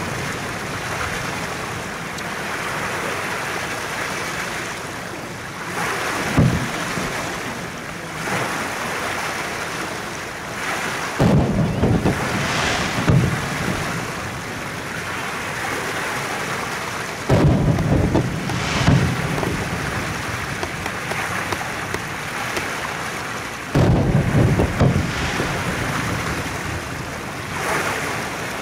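Aerial fireworks bursting: about seven heavy booms, some in quick pairs, with a continuous rumble of distant bursts and echoes between them.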